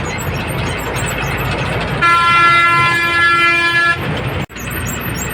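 Steady road and engine noise of traffic on a highway, with a vehicle horn sounding once, held for about two seconds, starting about two seconds in.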